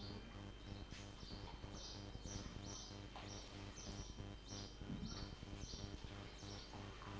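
A small bird chirping over and over, about two short high chirps a second, faint above a steady low electrical hum.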